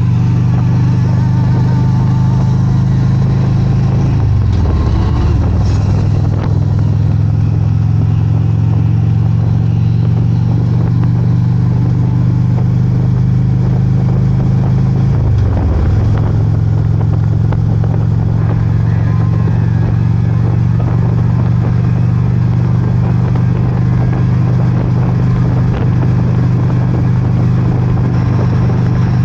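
Motorcycle engine running steadily under way. Its note dips and comes back up twice, about four and fifteen seconds in.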